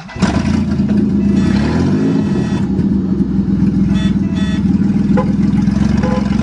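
Ford truck engine starting for the first time this year, coming on suddenly and then running loudly, with a brief rise and fall in revs about a second and a half in.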